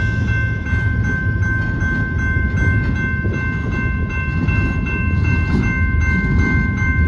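Freight cars of a loaded rock train rolling through a grade crossing with a steady low rumble. A crossing signal bell rings over and over above it.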